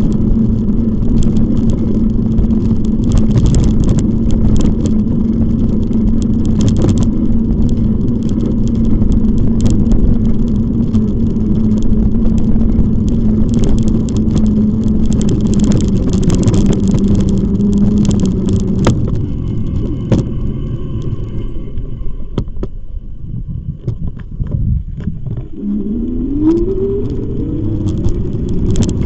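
Wind buffeting the microphone and rolling noise from a moving e-bike, with a steady hum that stops about two-thirds of the way through. The sound eases for a few seconds and then a rising whine comes in near the end.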